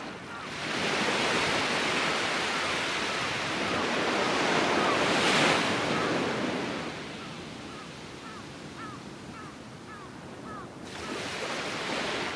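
Surf on a sandy beach: a wave breaks and washes in over the first several seconds, then eases off, and another wave starts to break near the end. Faint short bird chirps repeat through it, clearest while the surf is quieter.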